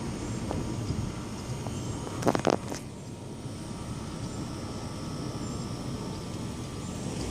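Four-engine jet transport aircraft, C-17 Globemasters, flying over: a steady low rumble from their turbofan engines, with a brief scuffing noise a little over two seconds in.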